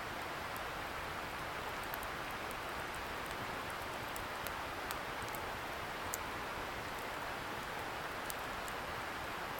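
Wood fire crackling with scattered sharp pops over a steady rushing hiss from a distant river.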